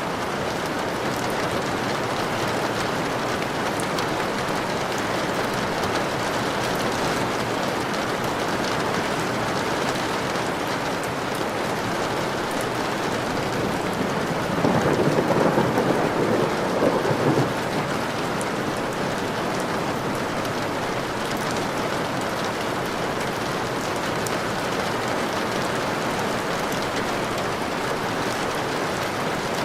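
Steady rain falling, with a roll of thunder lasting about three seconds around the middle.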